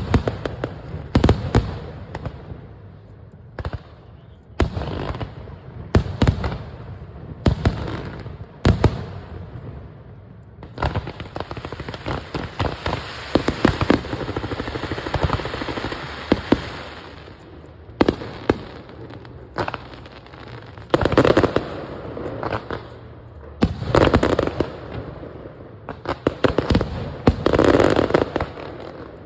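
Fireworks display: a run of sharp shell bursts. About a third of the way in they give way to several seconds of steady hissing, and near the end come clustered bangs with crackling.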